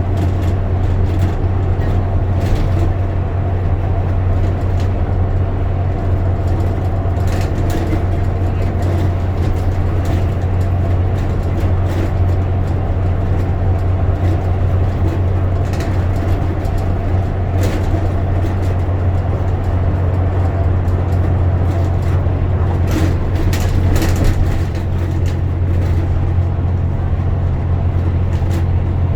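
Bus running on the road, heard from inside the cabin: a steady low engine and road drone with a few short rattles and clicks scattered through it.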